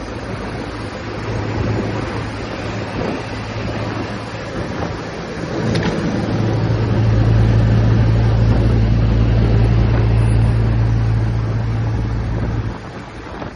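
Royal Enfield Classic 350's single-cylinder engine and exhaust running steadily under way, with wind noise on the microphone. About halfway through the deep drone gets louder and holds, then drops off sharply near the end.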